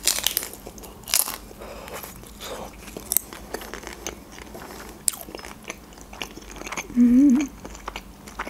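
Close-up biting into a homemade taco with a thin lavash shell, then chewing, with sharp crisp crunches every second or two. A brief low hum from the eater about seven seconds in.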